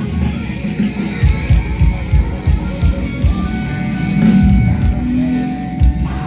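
Live rock band playing, with a run of heavy low drum hits through the middle.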